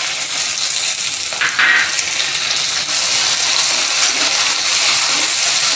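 Crushed shallots sizzling as they go into hot coconut oil with frying coconut pieces, dry chillies and curry leaves, stirred with a wooden spatula. The sizzle flares briefly about a second and a half in and grows louder from about three seconds.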